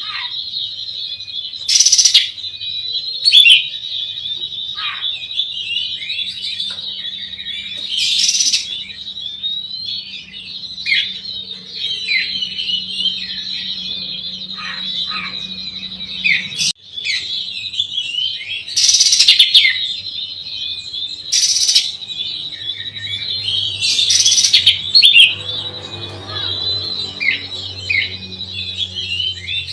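Oriental magpie-robin (kacer) singing a fast, continuous chattering song, with loud short bursts every few seconds.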